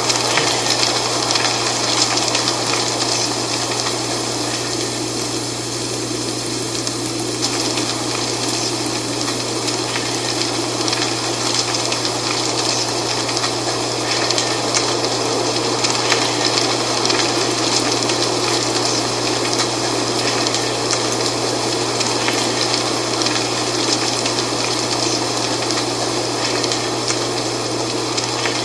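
Wind blowing through dry fall leaves, a steady rustling hiss with fine crackles that swells and eases gently.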